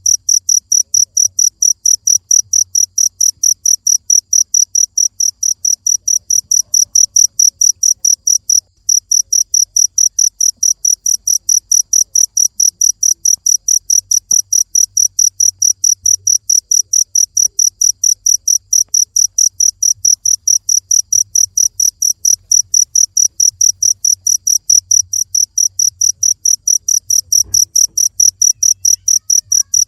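Cricket chirping in a fast, even run of high-pitched chirps, with a brief break about nine seconds in.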